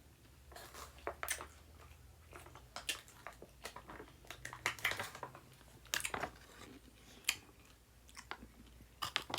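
A person chewing a crunchy kosher dill pickle, with irregular crisp crunches as they bite and chew.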